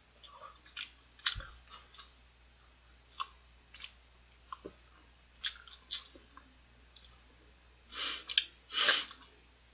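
Close-up mouth sounds of eating fried chicken: scattered small clicks and crunches of biting and chewing. Near the end come two louder, longer sounds, each under half a second.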